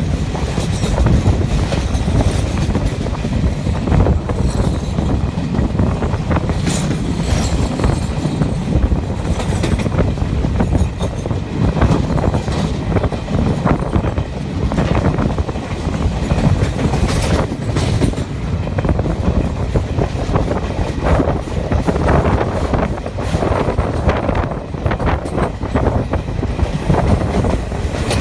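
Passenger train running over a river bridge, heard from aboard: a steady rumble of wheels on rails, with frequent clicks and knocks from the rail joints.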